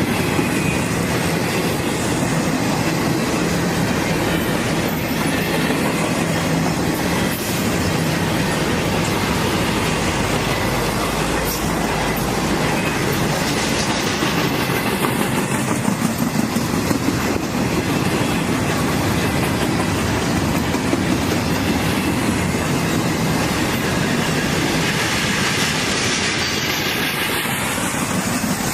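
Norfolk Southern freight train rolling past: a steady clatter of railroad car wheels on the rails, with some wheel squeal.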